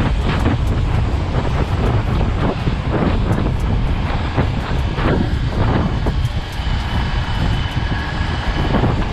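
Loud, continuous rush of wind buffeting the camera microphone with road noise while riding an electric dirt bike at speed, with a faint high whine from about six seconds in.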